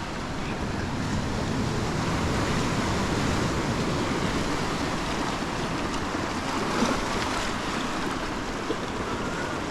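Ocean surf washing in at the shoreline, a steady rush that swells a second or so in, with wind on the microphone. A brief knock about two-thirds of the way through.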